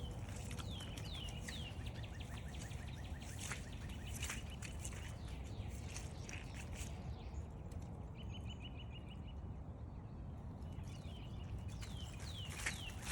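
Songbird singing a series of down-slurred whistles followed by rapid trilled notes, repeated several times, over a steady low rush of wind.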